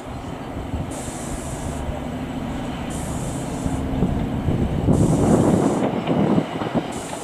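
Class 150 Sprinter diesel multiple unit approaching slowly, its underfloor Cummins diesel engines running steadily and growing louder. About five seconds in, its wheels clatter and squeal over the pointwork.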